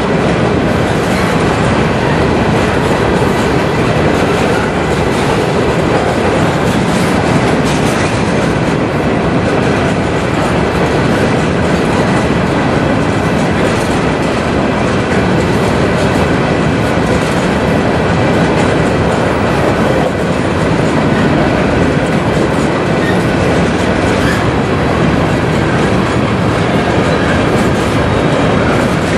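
Empty covered hopper cars of a long freight train rolling past close by: a loud, steady rumble with the clickety-clack of steel wheels over the rails.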